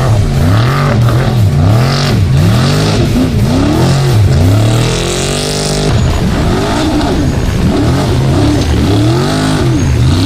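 Trophy truck engine racing at full throttle, rising and falling in pitch about once a second as the revs swing up and down.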